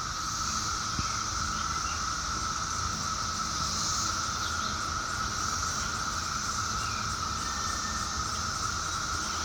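A steady, unbroken chorus of insects such as crickets, trilling at two constant pitches, one high and one lower, over a faint low rumble.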